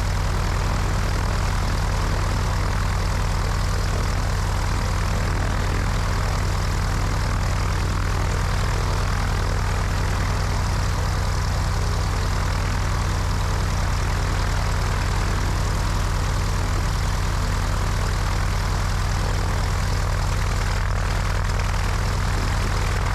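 Cessna 172's piston engine and propeller running at a steady, unchanging drone, with wind rushing over a wing-mounted microphone.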